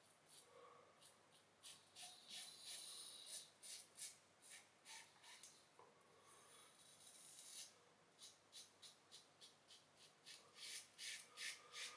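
Safety razor with a fresh blade scraping through a few days' stubble on a lathered face in faint, short strokes, two to three a second, with one longer scrape about two-thirds of the way through.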